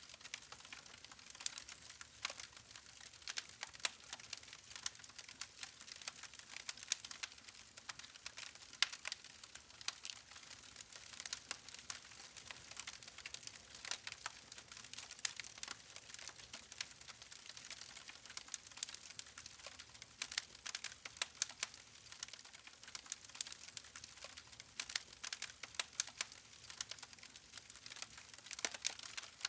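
Log campfire crackling: a dense run of small, irregular sharp pops and snaps over a soft hiss.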